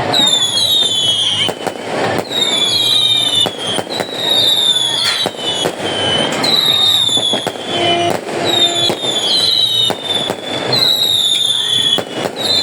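Fireworks going off in quick succession: repeated high whistles that fall in pitch, about one a second, among sharp bangs and crackling.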